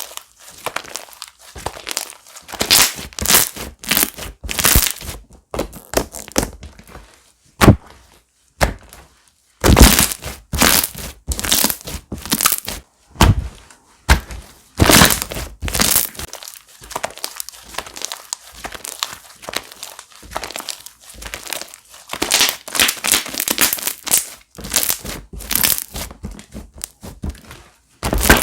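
Slime being squished, pressed and stretched by hand, giving irregular bursts of crackling, popping and squelching clicks, some of them sharp and loud.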